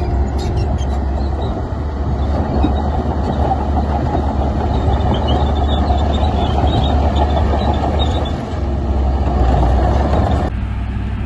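Heavy diesel earthmoving machinery running steadily with a deep, continuous rumble. The sound changes abruptly near the end.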